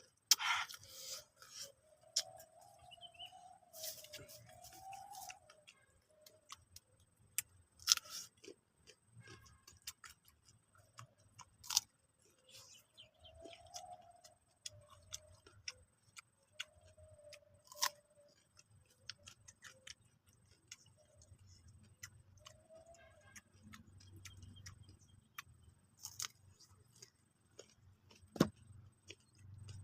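Close-up eating of raw green papaya rujak: irregular crunching and wet clicking of chewing and bites, with a faint wavering tone now and then.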